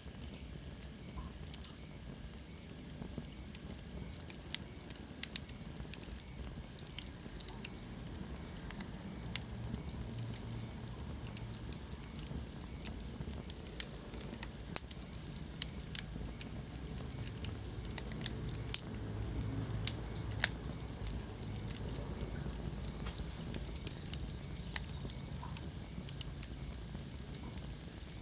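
Wood fire burning in a fireplace, crackling with many irregular sharp pops over a low steady rumble.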